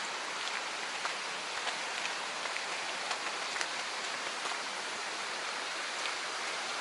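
Steady rush of a mountain stream flowing over rocks, with faint scattered ticks on top.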